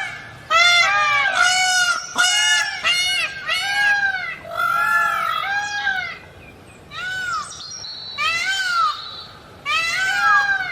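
Green peafowl calling: a series of loud, arching honk-like calls, some coming in quick runs of two or three and others spaced out with short pauses between them.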